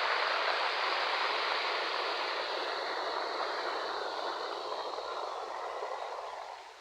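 Ocean waves washing onto a shore: a long hiss of surf that slowly dies away near the end.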